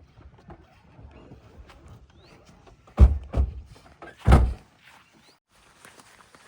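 Heavy thuds: two close together about three seconds in and a louder one about a second later, over faint scattered clicks.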